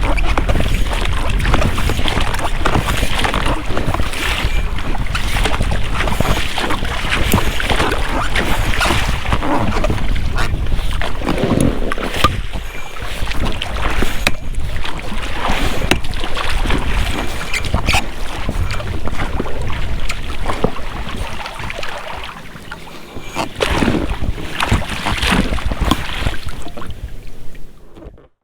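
Oars of an inflatable rowing boat splashing and dipping in the water with each stroke, the rubber rowlocks creaking as the oars work. The sound fades out at the very end.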